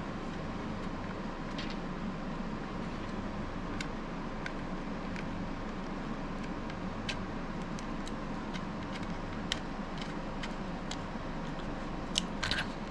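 Scattered light clicks and taps of a plastic knife sheath and belt clip being handled, with a small cluster of sharper clicks near the end, over a steady background hum.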